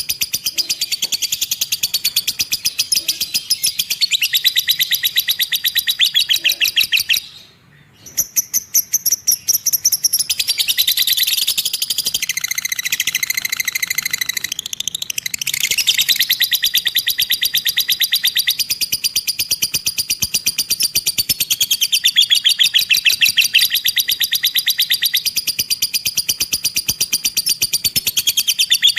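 A lovebird's long, rapid chattering 'ngekek' song: a fast, even run of high chirps that goes on almost unbroken, with one short pause about seven seconds in.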